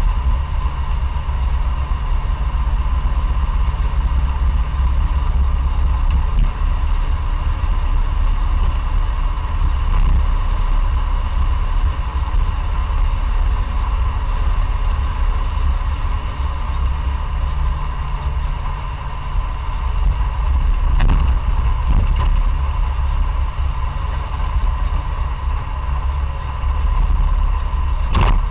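Classic Fiat 500's air-cooled two-cylinder engine running steadily, heard from inside the small car, with two brief clicks along the way.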